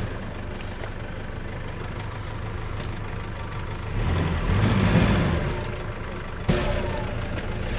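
Off-road vehicle engine idling, rising briefly for a couple of seconds about four seconds in.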